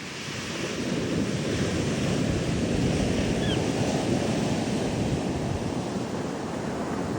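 Ocean surf breaking and washing ashore, swelling about a second in and then slowly easing. Wind buffets the microphone.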